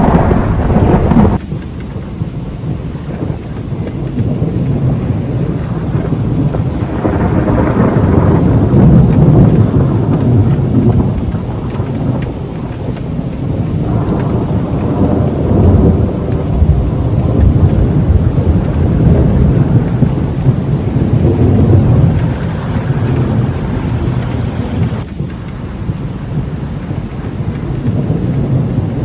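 Thunderstorm: rolling thunder in several long, low rumbles that swell and fade over a steady downpour of rain. A loud stretch at the start stops abruptly just over a second in.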